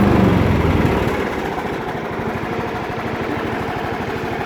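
Riding lawn mower's engine running: loud at first, then dropping to a quieter, steady rapid putter about a second in.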